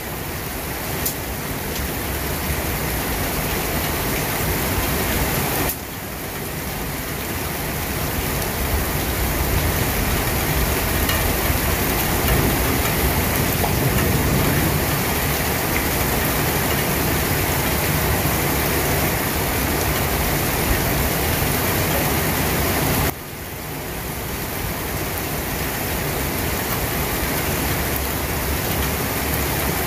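Steady heavy rain heard from behind a rain-streaked window pane, a dense, even rushing hiss with a deep rumble under it. About six seconds in, and again near 23 seconds, it drops abruptly quieter and then swells back up.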